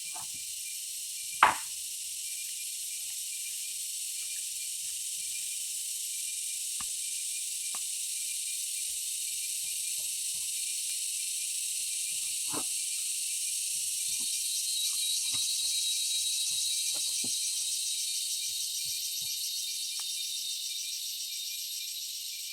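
A steady high-pitched chorus of insects, swelling into a fast pulsing trill in the second half. A single sharp knock comes about a second and a half in, and a few light knocks and taps are scattered through.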